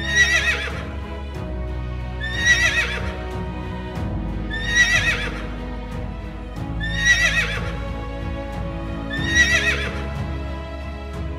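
A horse whinnying five times at even intervals, each call short and shaky in pitch, over steady background music.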